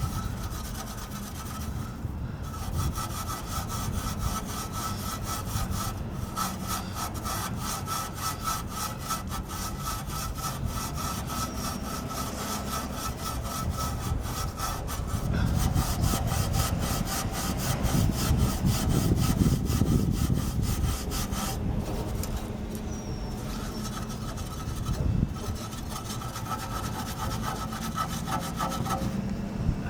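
Soapy scrubbing of a Honda Cub's metal frame in rapid back-and-forth strokes, with a short pause about two-thirds of the way through.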